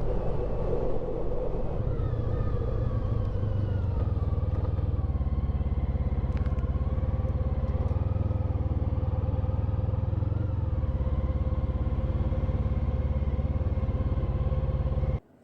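Honda ST1300 Pan European's V4 engine running at road speed, with heavy low rumble of wind and road noise; its pitch rises and falls gently with the throttle. It cuts off suddenly near the end.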